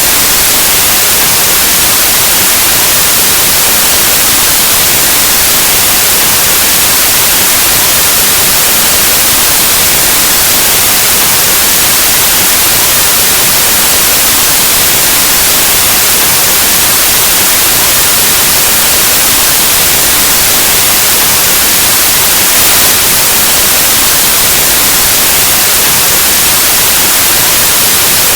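Loud, steady white noise: an even, full-range hiss like the static of an analog TV or radio, unchanging throughout.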